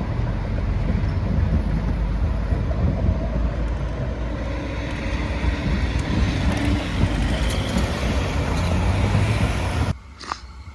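Tram running in, a loud steady rumble of wheels and motors with faint whining tones over it; the sound cuts off suddenly shortly before the end, leaving much quieter background.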